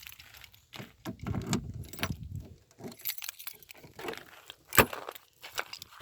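Car keys jangling, with scattered clicks and rattles and one sharp click a little before five seconds in.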